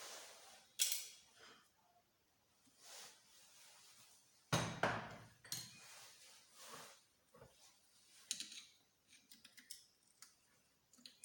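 Irregular metallic clinks and knocks of hand tools and small engine parts being handled and set down during the strip-down of a small motorcycle engine. The loudest knocks come about a second in and near the middle, with lighter ticks after.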